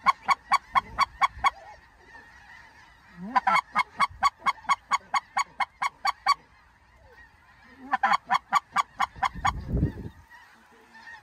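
Goose calling in three bursts of rapid, evenly spaced, high honks, about four or five a second, in the rhythm of a snow goose call worked to turn flocks back toward the decoys. A short low rumble comes after the last burst.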